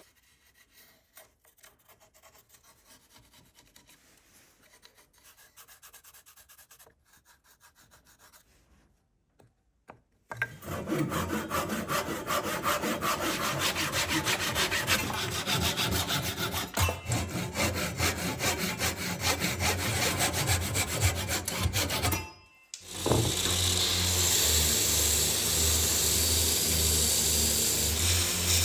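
Wooden knife-handle material worked by hand. The first seconds hold faint rubbing, then about ten seconds in, loud, rapid rasping strokes start. Near the end, after a brief pause, a power tool starts running with a steady noise and a pulsing low hum.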